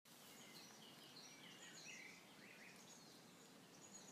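Faint birdsong: many short, high chirps and whistles from small birds repeating throughout, over a faint steady hiss.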